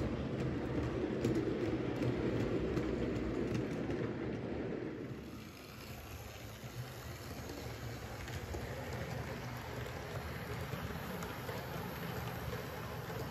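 A train running on its track: a steady rumble with faint clicks, dropping to a quieter, even noise about five seconds in.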